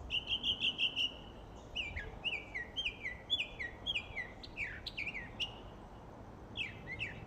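Songbird singing: a quick run of repeated chirps, then a string of clear whistled notes that each slide downward, about two a second, with a few sharper calls near the end.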